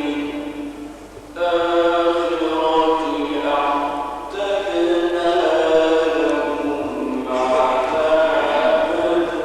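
A man reciting Quran in the melodic mujawwad style: long sung phrases of held, slowly shifting notes, three phrases in a row after a short dip about a second in.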